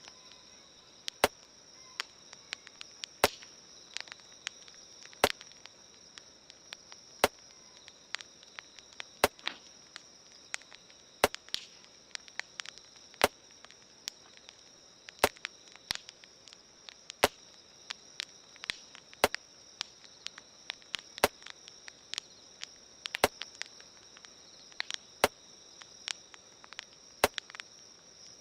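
Campfire crackling, with many sharp irregular pops and a louder click about every two seconds, over a steady high chirring of insects.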